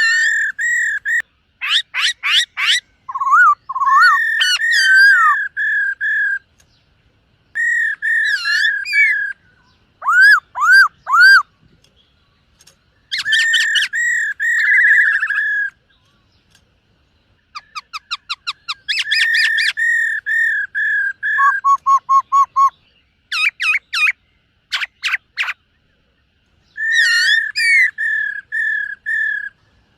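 Black-throated laughingthrush singing loud, clear whistled phrases of a few seconds each, built from runs of repeated notes and quick rising and falling sweeps, with short pauses between phrases.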